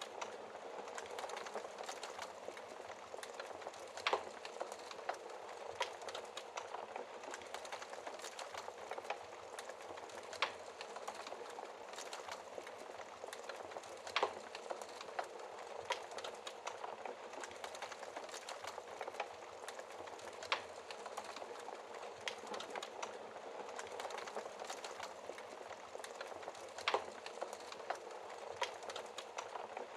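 Wood fire crackling, with many small snaps and a louder pop every several seconds, over a steady hiss of rain.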